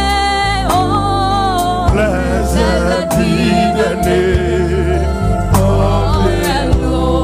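Live gospel worship music: a voice holding long notes with vibrato over a steady deep bass line, with drum hits roughly every second.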